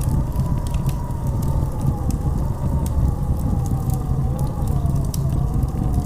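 Blizzard wind howling, with a deep steady rumble under a wavering whistle that slowly rises and falls. Faint scattered ticks and crackles run through it.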